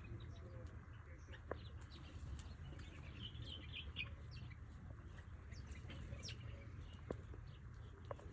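Birds chirping in many short, scattered high notes over a steady low hum, with a few sharp clicks.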